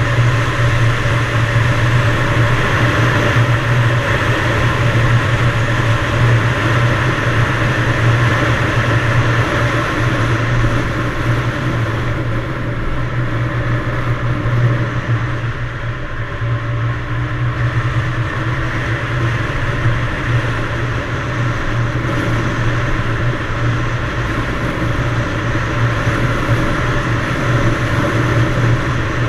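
Yamaha DT175's two-stroke single-cylinder engine running steadily at a constant pitch while under way. About halfway through, its higher sound fades for a few seconds, then returns.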